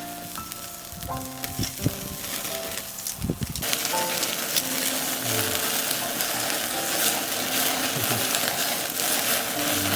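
Pieces of offal sizzling and crackling as their fat renders over a charcoal shichirin grill. The sizzle comes in loud and dense about three and a half seconds in. Before that a stepping melody of background music is the main sound.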